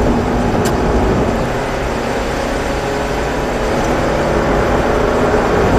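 Mazda 3 1.6-litre engine accelerating out of a corner, its pitch climbing slowly, under a steady hiss of tyres and spray on a wet track. There is one short click about two-thirds of a second in.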